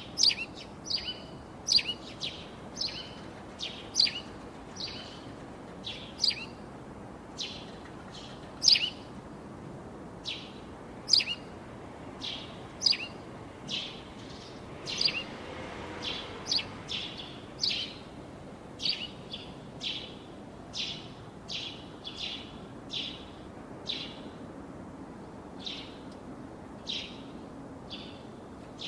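A bird repeatedly giving short, high chirps, about one or two a second, over a steady background hiss.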